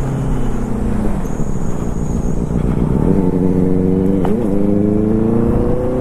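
Superbike engine under way, its note easing off and dipping, then after a short blip about four seconds in climbing steadily as the bike accelerates.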